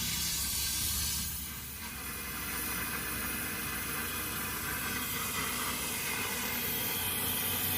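A steady hiss that grows stronger about a second and a half in, over a low steady hum.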